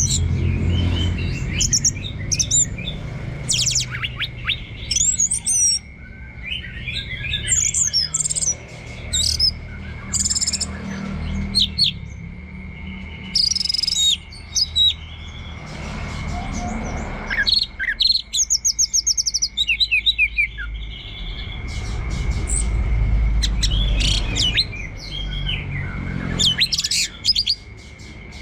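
Orange-headed thrush singing a long, varied song of quick whistles, chirps and fast trills, with a thin steady high tone running beneath.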